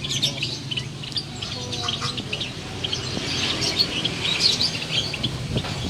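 Caged jalak starlings chirping in a dense run of short, high calls, over a low background murmur.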